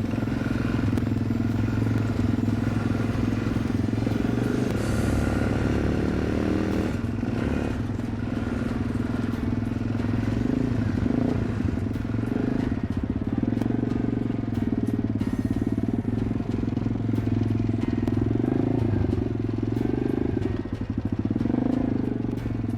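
Small off-road engines of a pit bike and a quad running steadily, their pitch wavering up and down with the throttle in places.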